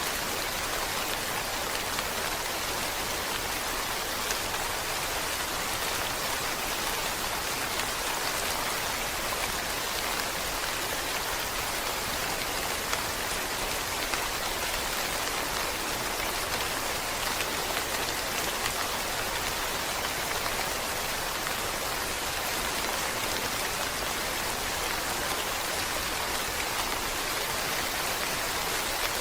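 Steady rain falling: an even hiss that stays the same throughout.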